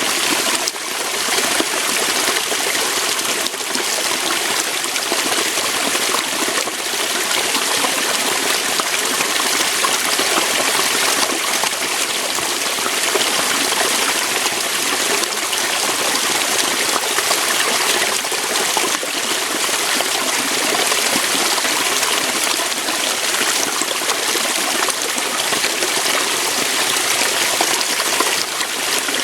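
Waterfall: water pouring and splashing over rocks in a steady, unbroken rush with a bright, hissy edge.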